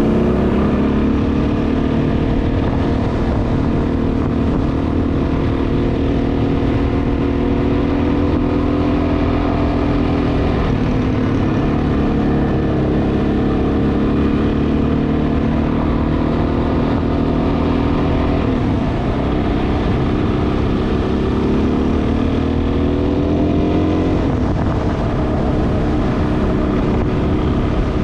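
Dual-sport motorcycle engine running under way, its pitch dipping and then climbing again at gear changes around ten, nineteen and twenty-four seconds in, over a steady low rumble.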